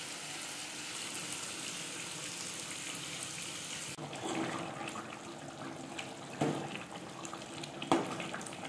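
Spiced chicken masala sizzling in a steel pot, a steady hiss. About four seconds in it changes to a watery gravy bubbling as a steel ladle stirs it, with two sharp knocks of the ladle against the pot.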